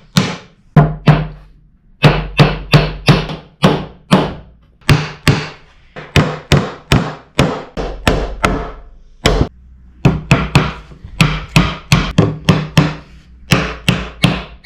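Hammer driving nails into wooden boards, a long run of sharp strikes about three a second, in short runs with brief pauses between them.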